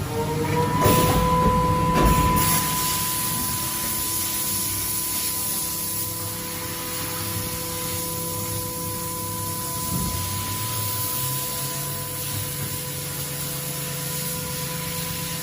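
CNC milling machine running: a steady spindle whine that rises to pitch in the first second and then holds, over a spraying hiss of coolant, with a few short knocks early on.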